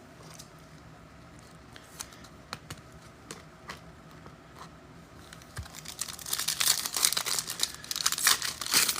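A few faint clicks of cards being handled, then, from about six seconds in, a foil trading-card pack wrapper being torn open and crinkled.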